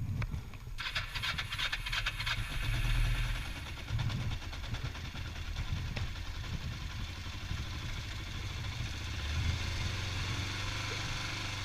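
A motorcycle engine just started and idling cold while it warms up. It clatters for the first couple of seconds, then settles into a steadier low idle.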